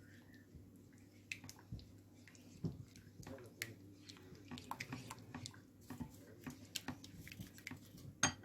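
A spoon stirring in a bowl of food, giving soft irregular clicks and squelches, with a sharper click near the end.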